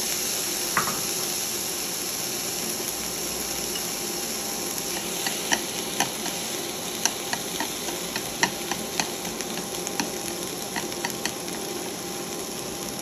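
Diced tomato and onion sizzling in a hot nonstick frying pan. From about five seconds in, chopsticks stirring them click sharply and irregularly against the pan, about once or twice a second.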